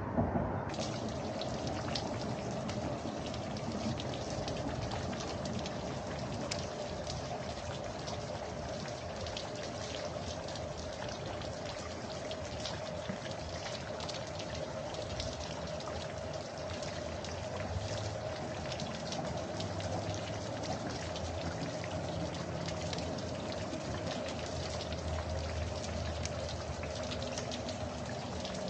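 Steady pattering of water, with many small drop-like ticks over an even hiss, and a steady hum underneath.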